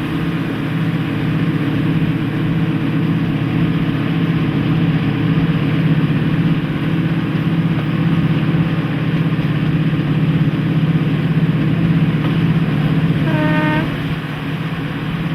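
Class 55 Deltic 55022's twin Napier Deltic two-stroke diesel engines running under power, a loud steady drone. About thirteen seconds in, a brief horn note sounds.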